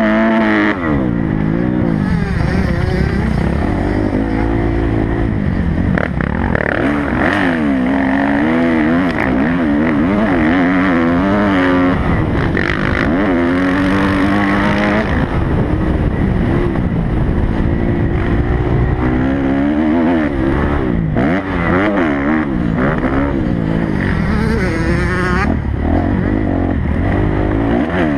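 Kawasaki motocross bike's engine running at full effort, its pitch climbing and dropping over and over as the throttle is opened and shut.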